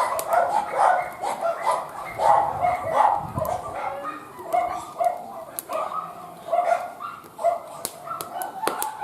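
A dog barking and whining repeatedly in short calls, with sharp crackles from a wood fire.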